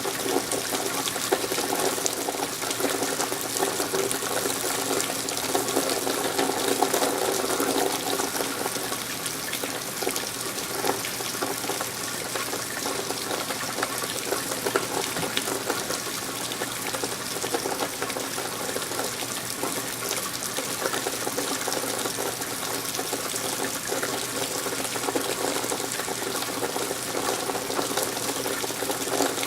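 Steady rain with running rainwater, an even splashing that holds without a break.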